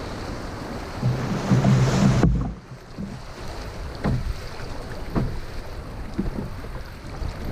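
Water rushing and splashing around a canoe running through river riffles, with wind buffeting the microphone; the loud rush stops abruptly a little over two seconds in, leaving a softer wash with a few short splashes about a second apart.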